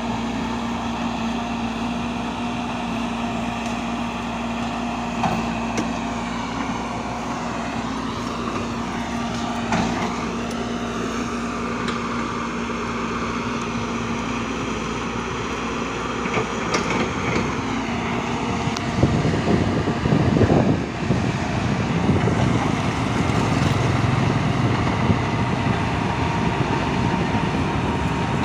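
Machinery running steadily with a constant tone, becoming louder and rougher about two-thirds of the way through.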